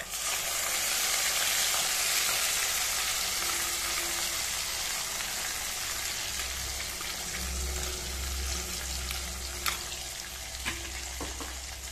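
Wet ground mint paste, with ginger, garlic and green chilli, poured into hot oil and ghee and sizzling. The sizzle starts sharply as the paste goes in and slowly eases off, with a few light clicks near the end.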